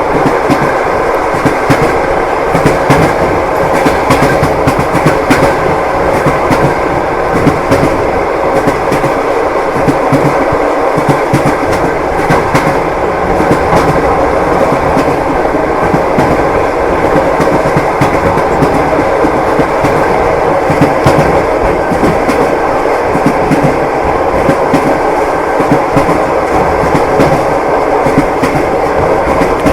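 Passenger train running along the rails: a steady rumble with the repeated clickety-clack of wheels striking the rail joints.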